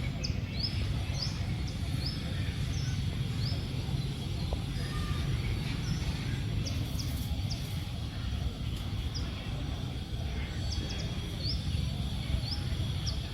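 Outdoor natural ambience: a bird repeating a short, high, rising chirp about once a second over a steady low rumble.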